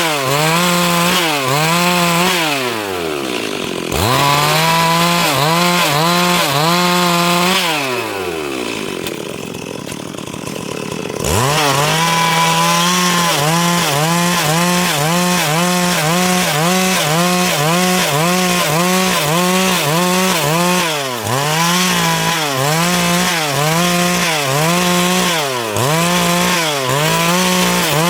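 Stihl MS 382 two-stroke chainsaw cutting wood at high revs, its pitch dipping and recovering about twice a second as the chain bites under load. The engine drops off briefly about 3 s in, then again near 8 s, running lower and quieter for about three seconds before revving back up and cutting on.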